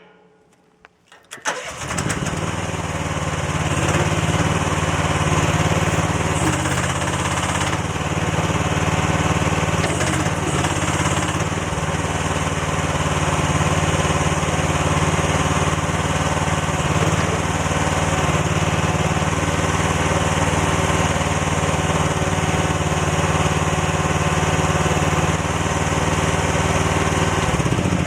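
Mini excavator engine starting about a second and a half in and catching at once, then running steadily. It is run to pressurise freshly connected attachment hydraulic hoses and check the fittings for leaks.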